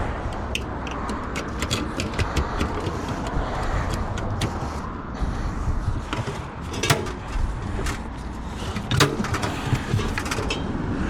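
Metal pots and pans clinking and knocking as a container of scrap is rummaged through, with sharp irregular clatters, the loudest about seven and nine seconds in, over a steady low street rumble.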